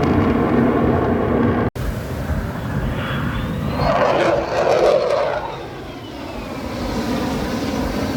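Airplane flying past, its engine sound swelling about four seconds in and then falling in pitch as it moves away. The sound cuts out for an instant near two seconds in.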